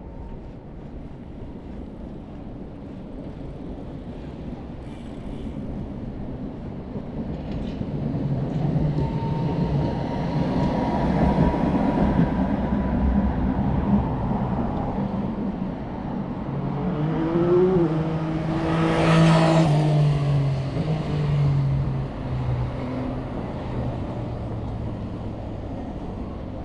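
A motor vehicle approaching and passing close by: its engine sound builds over several seconds, is loudest about two-thirds of the way in, then fades away.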